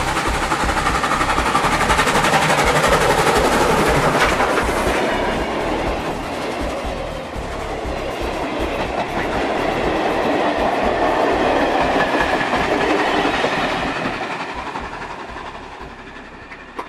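A train running, its wheels clacking over the rail joints; the sound fades away over the last few seconds.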